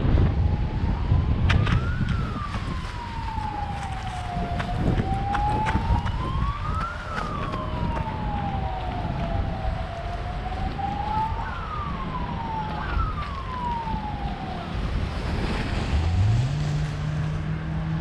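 Distant emergency-vehicle siren wailing, rising and falling slowly, with a few quicker falling sweeps later on, heard over wind rushing on the microphone. A low steady hum comes in near the end.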